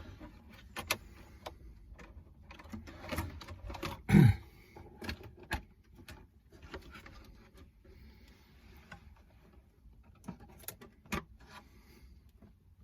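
Small clicks, taps and knocks of a plastic RC car body shell being handled and fitted onto its chassis, with a louder knock about four seconds in and two more near the end.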